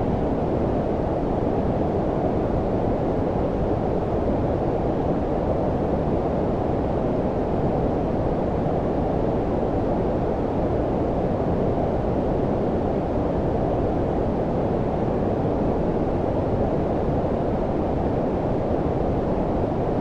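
Steady low-frequency noise for sleep, white noise filtered warm like brown noise: a deep, even rumble-hiss with most of its weight below about 1 kHz and little hiss above, unchanging throughout.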